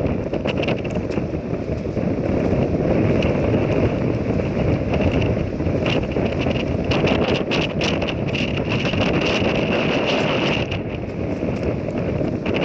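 Strong wind buffeting the microphone: a loud, dense low rumble that gusts without letting up, with scattered short clicks.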